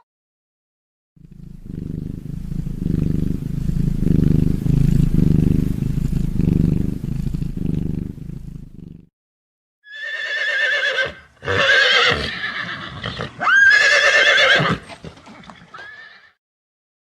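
A low, pulsing rumble for several seconds, then a horse neighing three times in loud, wavering whinnies.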